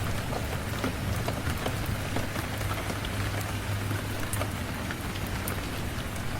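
Steady rain falling on a surface, with scattered sharp ticks of single drops and a steady low rumble underneath.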